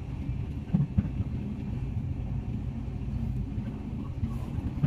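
Passenger train running along the track, heard from inside the coach: a steady low rumble, with two quick knocks about a second in.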